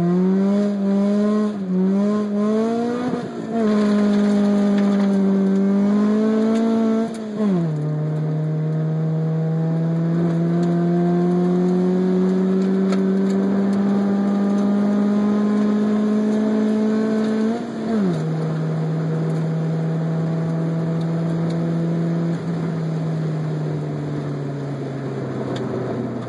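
1994 Honda Civic Si's 1.6-litre SOHC VTEC four-cylinder engine under full-throttle acceleration, heard from inside the cabin. The engine note climbs through the gears, and at each upshift it dips briefly and drops in pitch. Near the end the pitch falls away as the car slows.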